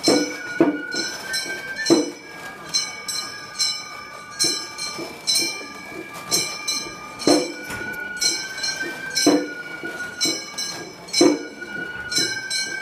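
Gion-bayashi festival music: a high flute holds long notes that step in pitch, over repeated ringing metal strikes, with a stronger beat about every two seconds.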